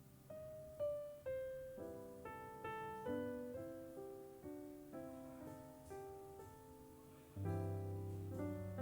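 Background piano music: a slow melody of single notes over chords, with a deeper, louder chord near the end.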